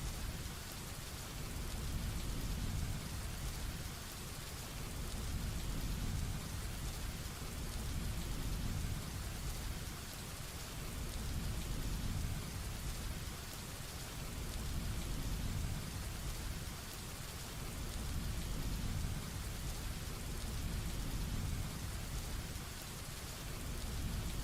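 Heavy rain falling steadily, with a low rumble of thunder that swells and eases about every four seconds.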